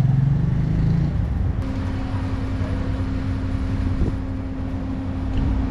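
Auto rickshaw engine running in street traffic, its note changing about a second and a half in and then holding steady.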